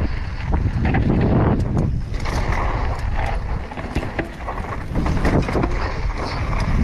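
Mountain bike riding over a rough trail: wind buffets the microphone over the rumble of the tyres. Frequent short clicks and knocks come from the bike rattling over bumps.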